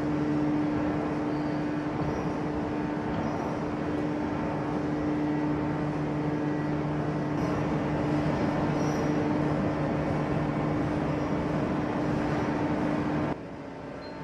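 Heavy hydraulic forging press and its plant running with a steady hum and drone, cutting off suddenly near the end.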